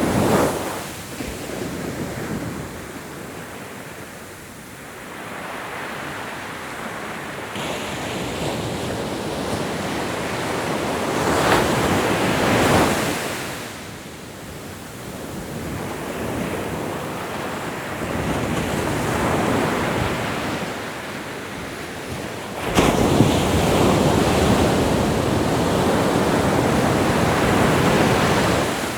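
Ocean waves breaking and washing ashore, the surf swelling and ebbing several times; a bigger wave crashes suddenly about three quarters of the way through and rushes on loudly for several seconds before fading.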